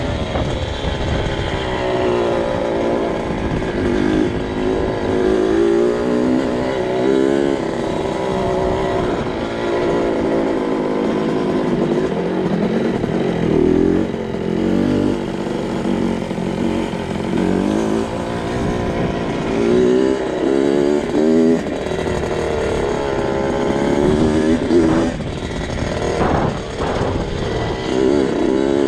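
2002 Kawasaki KX65's small two-stroke single-cylinder engine being ridden, its pitch rising and falling again and again as the throttle is worked on and off.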